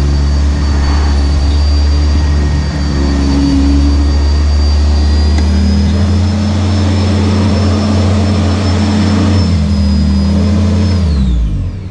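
Sanitaire SC679j upright vacuum cleaner running steadily with a high motor whine over a low hum, then switched off near the end, the whine sliding down as the motor winds down.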